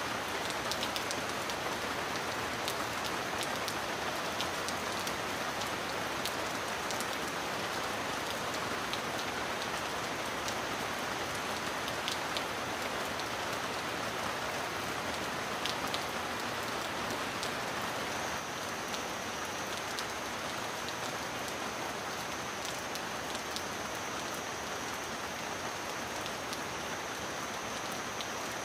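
Steady heavy rain, a dense even hiss with scattered sharp drop ticks; it eases slightly about two-thirds of the way through.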